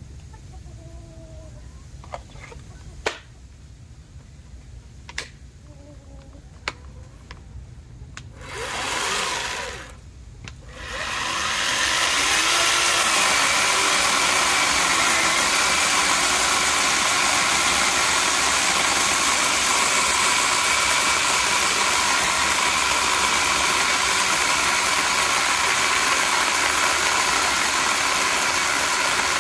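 Worcraft 40V cordless electric chainsaw: a few sharp clicks, then a short burst of the motor and chain spinning up about eight seconds in. From about eleven seconds it runs continuously at a steady high speed.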